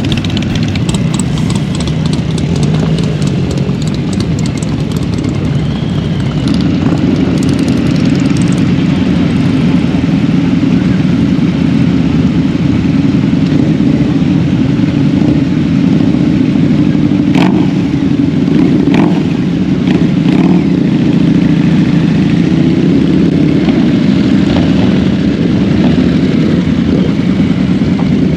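Motorcycle engines running steadily, a little louder from about six seconds in, with a few short sharp clicks near the middle.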